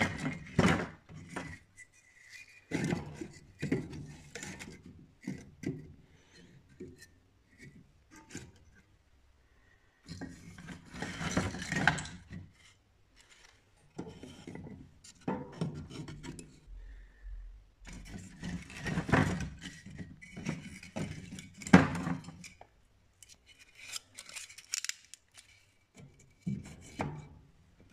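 Thin wooden kindling sticks being handled and laid into a wood stove: irregular knocks and clicks of wood on wood, with bursts of scraping and rustling.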